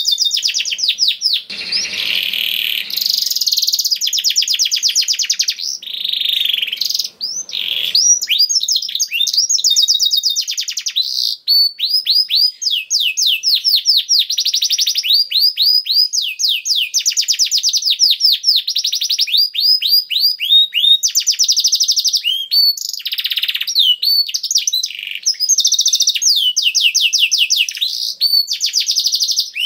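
Domestic canary singing a long, continuous song. It runs as a string of fast trills, each phrase a rapid series of high sweeping notes that changes speed and pattern from one phrase to the next, with only brief pauses.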